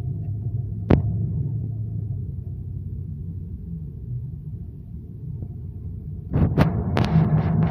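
Low steady rumble of a vehicle engine, with a sharp click about a second in. Near the end a louder hissing noise with several clicks comes in.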